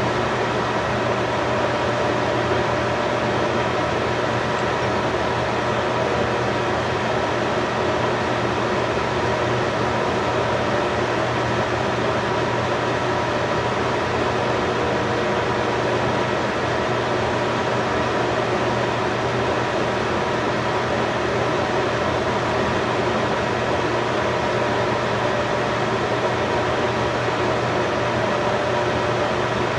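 Steady machine hum: an even whirring noise with faint constant whine tones, unchanging throughout.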